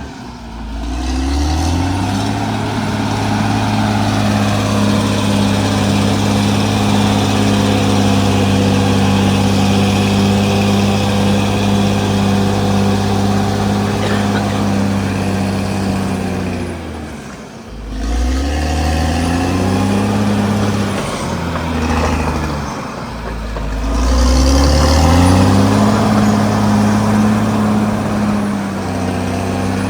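CAT D6R XL bulldozer's diesel engine working under load, revving up, holding steady, then dropping and climbing again several times as the machine pushes and reverses.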